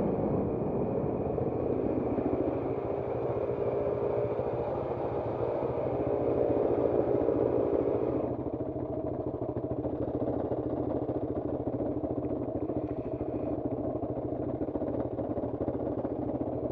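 Motorcycle engine idling steadily. About eight seconds in, the sound becomes duller as its higher part drops away.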